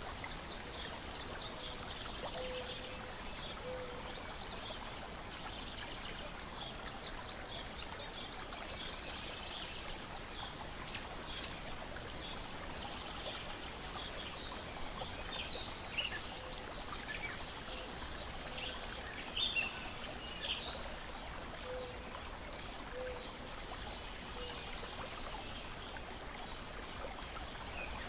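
Water gently lapping and trickling in a steady wash, with small birds chirping and singing in many short calls throughout, and a couple of sharp clicks about eleven seconds in.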